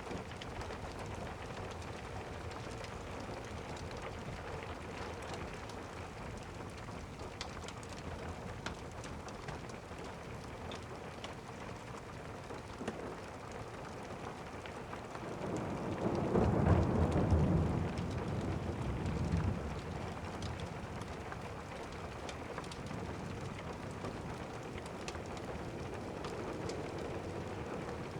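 Steady rain, with a rumble of thunder rolling in about halfway through, swelling for a few seconds and then fading back into the rain.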